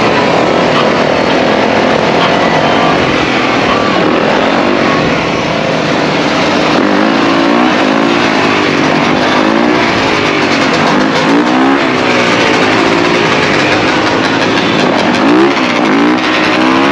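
A pack of dirt bikes and ATVs riding together, several engines revving up and down at once, their pitches rising and falling over each other.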